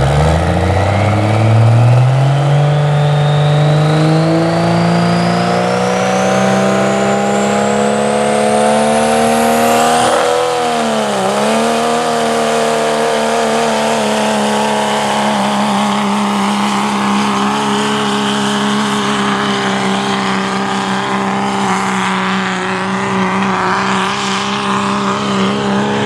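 Diesel pickup truck engine at full throttle pulling a sled. It climbs from idle to high revs, with a high turbo whistle rising steadily in pitch over the first ten seconds. The revs dip briefly about eleven seconds in, then hold high until the engine lets off near the end.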